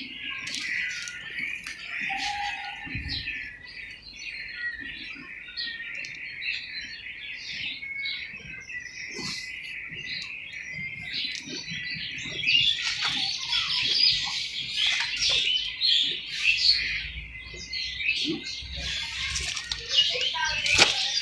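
Small birds chirping and chattering together, getting busier about halfway through, with a few faint knocks.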